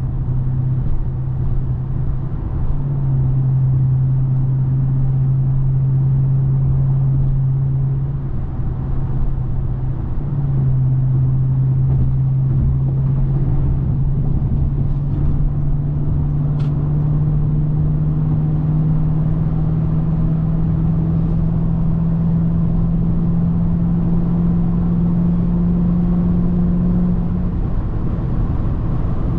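Hyundai Genesis 4.6 V8 engine and exhaust droning under way over low road rumble. The engine note steps down twice in the first third, then climbs slowly and steadily as the car gathers speed, and drops near the end. A single faint tick comes just past the middle.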